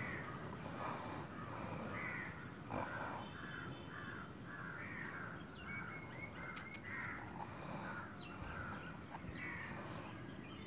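Birds calling, a quick series of short calls one after another, with a thin whistled note about six seconds in. A single sharp click about three seconds in.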